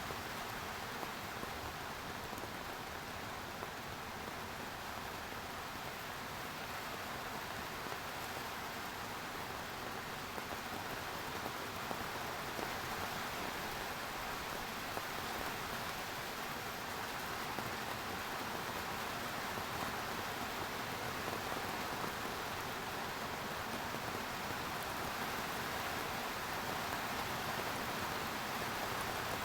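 Steady rain falling, an even hiss of many drops striking surfaces, with faint scattered individual drop ticks.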